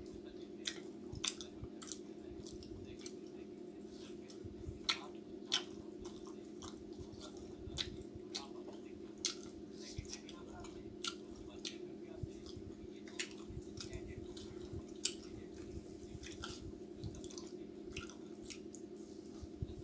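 A man chewing chicken and samosa with his mouth close to the microphone: irregular wet smacks and clicks, over a steady low hum.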